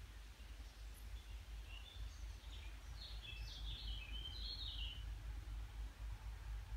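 A songbird sings one phrase of quick, jumping high notes, starting about two seconds in and lasting about three seconds, over a steady low rumble.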